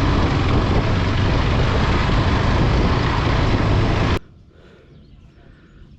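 Motorcycle engine running under heavy wind rush on the microphone while riding, with a steady low engine drone. It cuts off abruptly about four seconds in to a quiet outdoor background.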